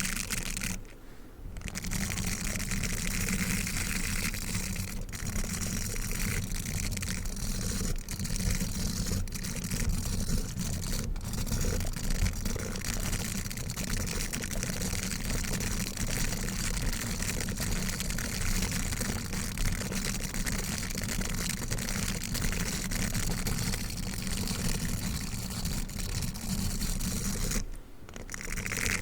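Dog toothbrush bristles brushed and scratched in a steady, dense scratchy rustle, with two short pauses: one about a second in, one near the end.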